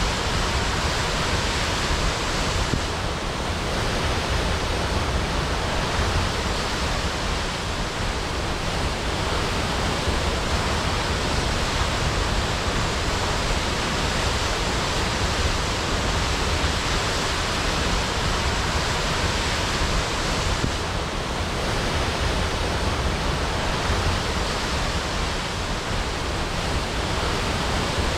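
Waterfall crashing: a steady, unbroken rush of falling water with a deep low rumble beneath it.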